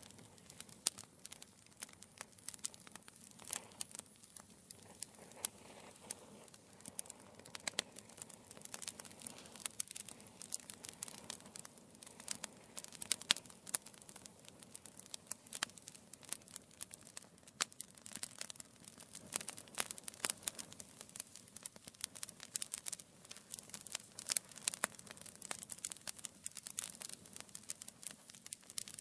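Wood fire crackling in a fireplace: irregular sharp pops and snaps from burning logs over a faint steady hiss of the flames.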